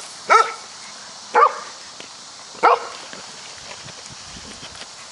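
Golden retriever puppy barking: three short barks about a second apart.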